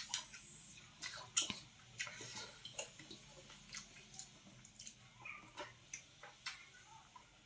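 Faint, irregular clicks and ticks, about two a second, over a low steady hum.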